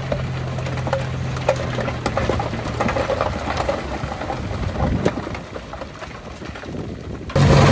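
Loose soil and stones crackling and tumbling as earth is moved, over a heavy diesel engine's steady note that fades out in the first two seconds. Near the end the sound cuts abruptly to the engine running loudly.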